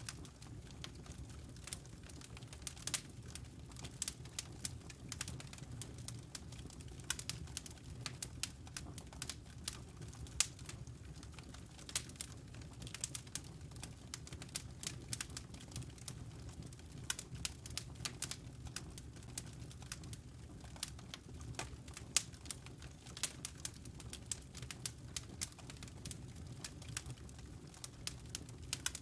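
Wood fire crackling, with many irregular sharp snaps and pops over a steady low rumble.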